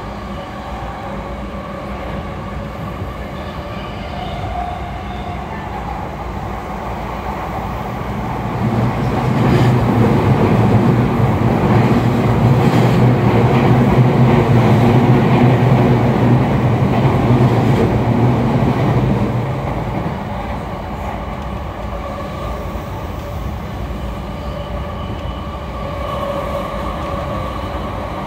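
Running noise heard inside an E217-series electric commuter train travelling at speed: a steady sound of wheels on rail. About eight seconds in it grows louder, with a strong deep hum, for roughly ten seconds, then eases back to its earlier level.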